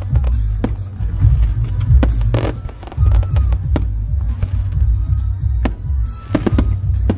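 Fireworks going off in a string of sharp bangs at uneven intervals, heard over loud music with a heavy, pulsing bass.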